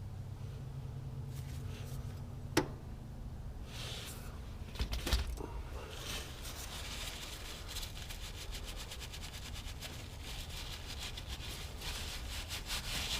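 Tools and parts being handled during an oil change: one sharp click about two and a half seconds in, a few knocks around five seconds, then continuous rubbing and scraping over a steady low hum.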